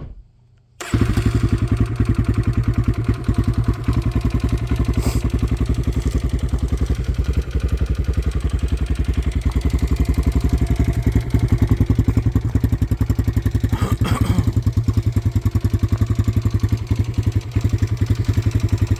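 Kawasaki KLX140RL's single-cylinder four-stroke engine on a cold start: a brief burst, then it catches just under a second in and idles steadily with an even, fast beat.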